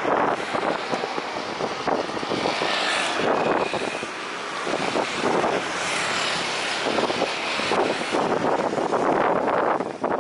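Jet airliner engines running as the aircraft passes, with gusty wind buffeting the microphone.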